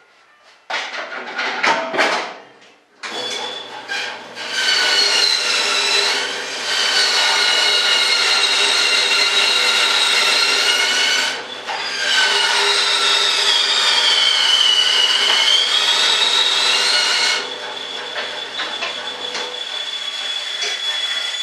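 Small electric power tool running in long stretches with a steady high whine, preceded by a few knocks and clicks. It pauses briefly about halfway, then its pitch sags under load.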